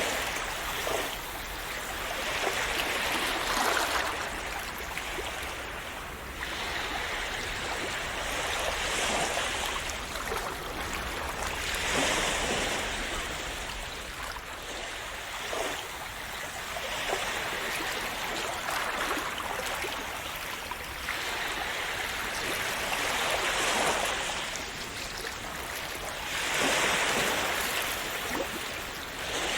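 Calm sea waves splashing and washing onto the shore, each wave swelling and fading every few seconds.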